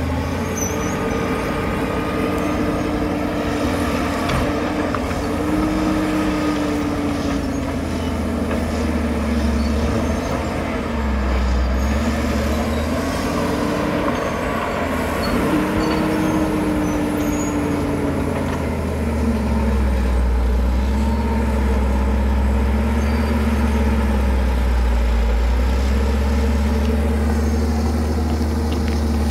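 Caterpillar D7 bulldozer's diesel engine running hard with a deep rumble, its note rising and falling over and over as it works.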